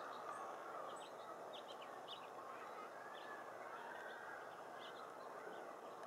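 Scattered short, high chirps and chips from small birds, many in quick succession, over a steady background hum.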